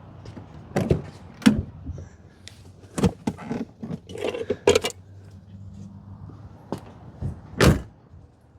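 Scattered sharp clicks and knocks of hands handling parts around a V8's distributor cap and spark plug wires in the engine bay, with the engine off. There is a quick flurry of knocks about four seconds in, and another sharp knock near the end.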